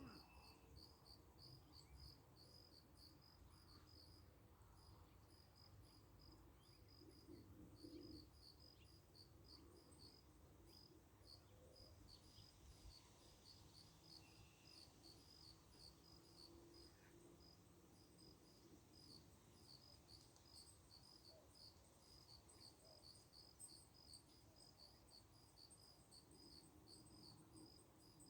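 Faint insect chirping: a steady run of short, high pulses, about three a second, that keeps going without a break.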